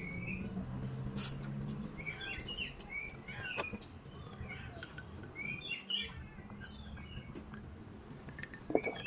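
Small birds chirping repeatedly in short, quick calls, with a few sharp clicks between them.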